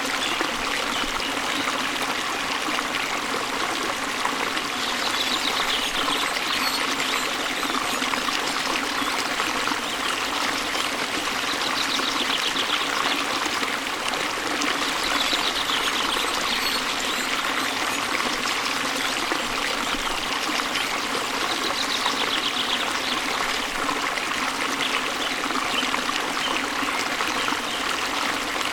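Waterfall splashing into a stream: a steady rush of falling and flowing water. A faint bird trill comes through now and then.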